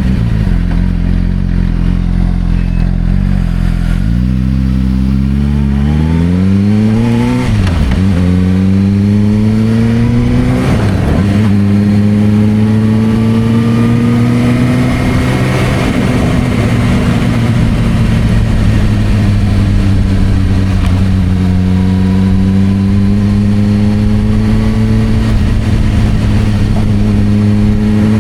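Suzuki GSR600's inline-four engine through an aftermarket Dominator exhaust: a steady low note, then the bike pulls away, the pitch rising and dropping sharply at two quick gear changes. It then runs at a steady cruise and picks up again near the end.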